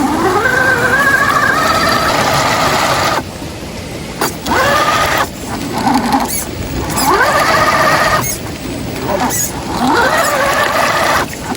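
Electric drive motor and gearbox of an HB ZP 1001 RC off-road truck whining as it is throttled up four times, each burst rising in pitch and then holding.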